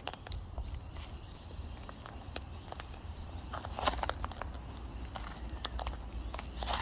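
Parrots cracking and picking through seed in a bucket: scattered small clicks and crackles, a little busier around the middle and near the end, over a steady low rumble.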